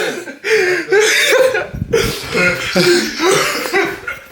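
People laughing loudly, with voices overlapping.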